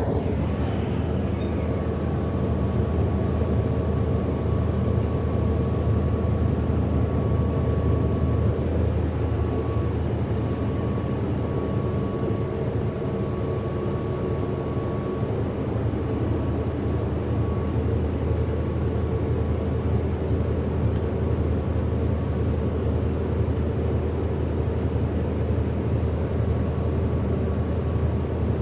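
Interior running sound of a 2008 Orion NG hybrid-electric city bus under way: a steady low drone with several constant hum tones. A thin, high steady whine sits over it from about a second in until about halfway through.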